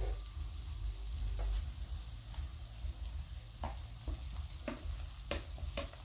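Potatoes and cauliflower sizzling in hot oil in a metal frying pan, a steady hiss. Several short taps and ticks come through it as tomato slices are pushed off a plate into the pan with a wooden spoon.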